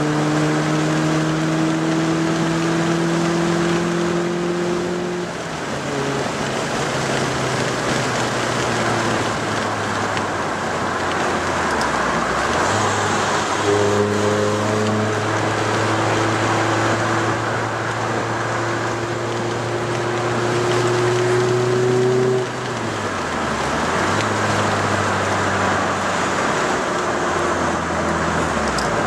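Opel Kadett GSI's 2.0-litre eight-valve four-cylinder engine with a tuned exhaust, heard from inside the cabin while driving. The engine note climbs slowly, falls away sharply about five seconds in, picks up again about halfway through and climbs until it falls away again about three-quarters of the way through, over a steady hiss of tyre and road noise.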